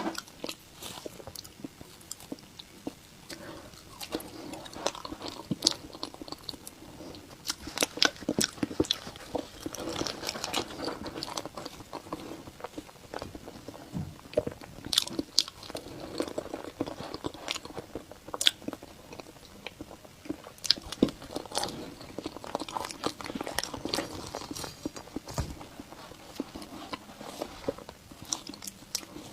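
A person chewing and biting food close to the microphone in a mukbang, with many irregular small clicks and crunches.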